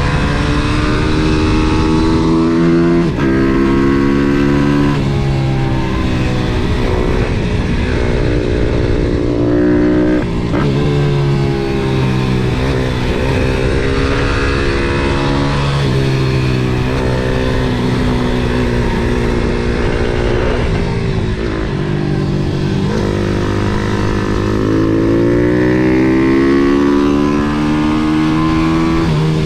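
MRF 140 SM pit bike's single-cylinder four-stroke engine at full riding load. It revs up repeatedly, and its pitch drops sharply several times at gear changes and throttle lifts.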